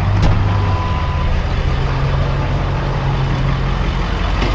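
Truck engine idling steadily, with a short high beep about half a second in.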